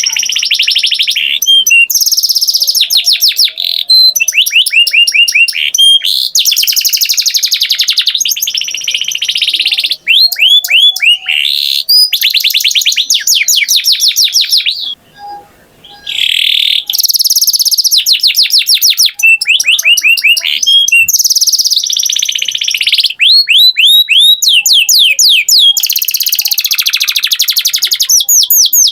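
Canary singing a long, continuous song of rapid trills and rolling phrases, with a brief pause about halfway through.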